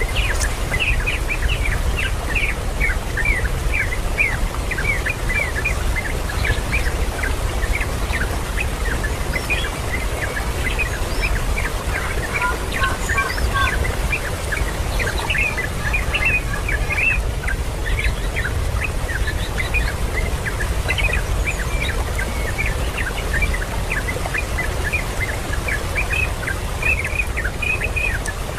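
Birds chirping continuously, many short high calls overlapping one another, over a steady low rumble.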